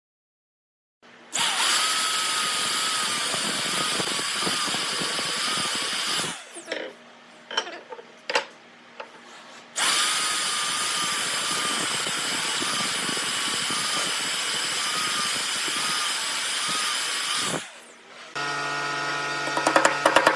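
Handheld electric power tool running at a steady speed in two long bursts, with a few clicks and knocks in the pause between them. Near the end a different machine starts up with a rapid pulsing rhythm.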